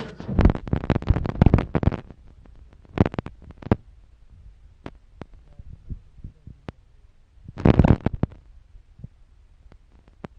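Close rustling and knocking against the microphone, in three clusters: a dense run in the first two seconds, a shorter one about three seconds in, and another about eight seconds in, with scattered single clicks between.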